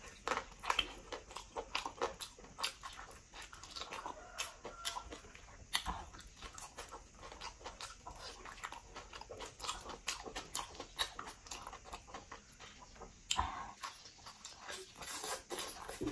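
A person biting into and chewing pork leg, with many irregular clicks and smacks of the mouth and no pauses longer than a moment.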